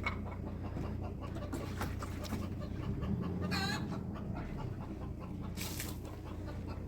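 A single short bird call about halfway through, over a steady low hum, with a brief hiss shortly after.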